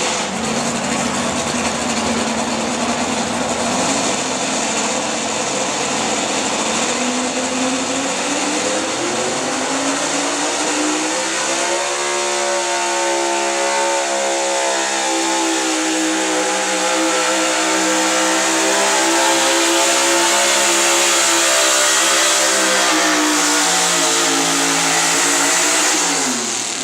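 Gasoline engine of a 6,200 lb altered stock 4x4 pulling truck running hard under load during a pull. Its pitch climbs over the first dozen seconds, holds high and steady, then drops sharply near the end as the throttle comes off.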